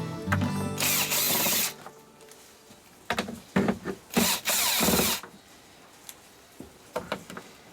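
Cordless electric screwdriver running in several short spurts, with small clicks between them, as screws are backed out of a flat-screen TV's plastic casing.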